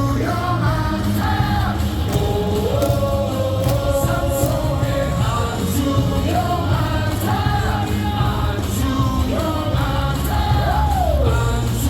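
Stadium crowd singing a cheer song in unison over loud amplified music with a steady beat, with sharp claps or thundersticks keeping time.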